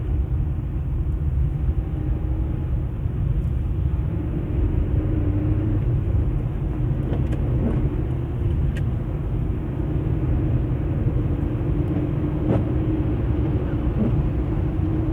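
Car being driven on a snow-covered road, heard inside the cabin: a steady low rumble of engine and tyres with a faint steady hum, and a few light clicks.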